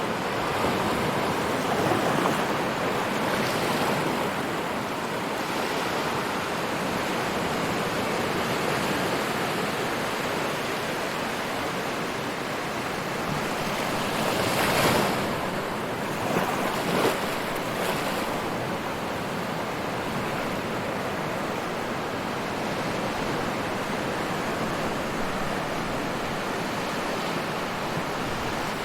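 Ocean surf with waves breaking continuously, a constant wash with a few louder wave crashes about halfway through.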